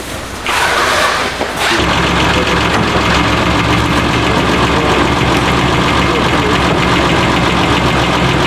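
A vehicle engine catches about two seconds in and then idles steadily.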